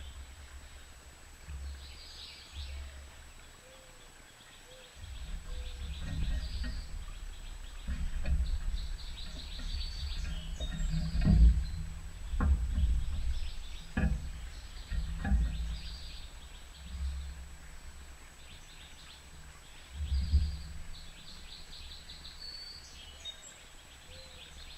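Small birds chirping at a feeder, with several sharp taps clustered in the middle, over a low rumble that comes and goes.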